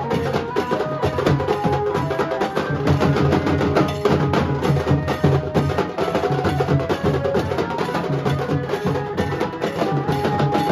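Nashik dhol drumming: a dense, driving rhythm of dhol and sharp tasha strikes, with a benjo playing a melody of held notes over it.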